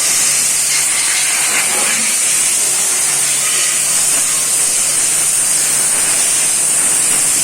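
A steady, loud hiss with a low hum underneath.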